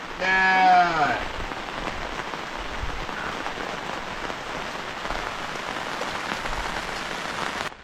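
Steady rain falling on a surface. In the first second a short, loud pitched call rings out and falls in pitch.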